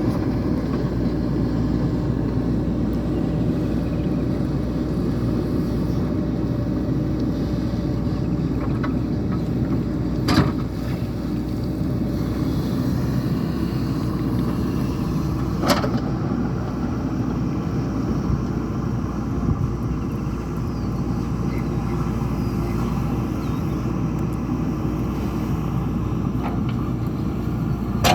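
JCB 3DX backhoe loader's diesel engine running steadily under work, with two sharp knocks, one about ten seconds in and one about sixteen seconds in.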